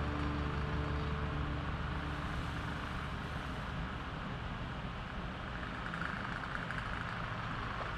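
Steady low mechanical hum of a running motor, with a few held tones in the first few seconds.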